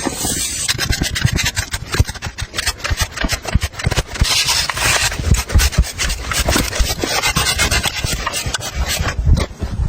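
Rough scraping and rubbing, made of many short crunching strokes in quick succession, fairly even in loudness, with a brief lull near the end.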